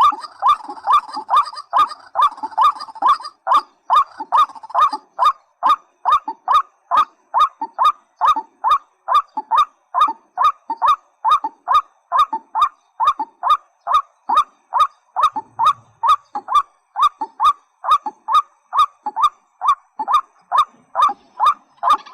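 A rail repeats the same short call over and over in a steady, even rhythm of about two to three calls a second.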